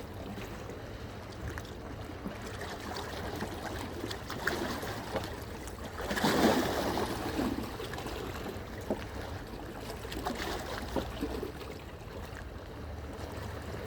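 Sea waves washing against the shore with wind rumbling on the microphone, and a louder surge about six seconds in.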